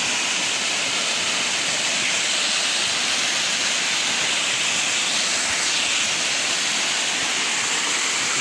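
Rushing water from a waterfall, a steady even hiss.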